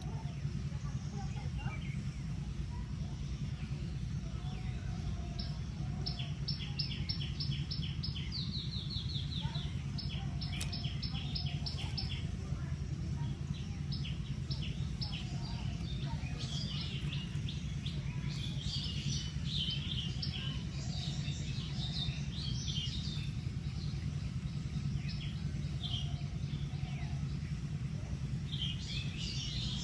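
Small wild birds chirping. A rapid run of repeated short notes comes about six seconds in, and scattered chirps follow later, over a steady low background noise.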